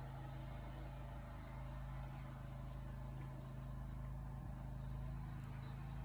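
Steady low mechanical hum, an even drone of low tones.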